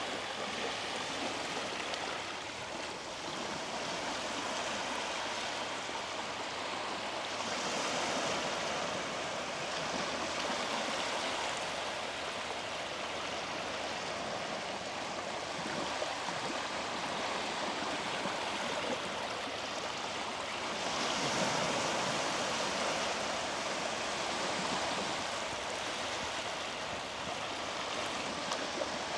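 Small sea waves washing onto the beach in a steady wash of surf, swelling louder twice as waves break.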